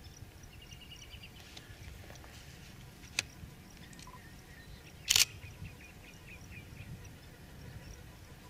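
Small birds chirping and trilling in open grassland over a low, steady wind rumble, with a sharp click about three seconds in and a brief, louder rushing burst about five seconds in.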